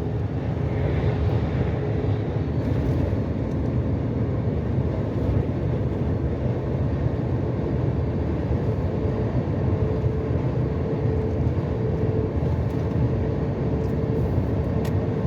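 Steady cab noise of a long-haul truck cruising on the highway: an even low engine drone and road rumble, with a faint steady hum.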